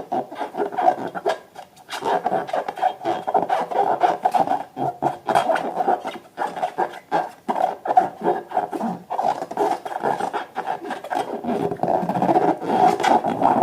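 Slime and balloons being squeezed and rubbed by hand: a continual squishing, squeaking rub with many small clicks, easing briefly about a second and a half in.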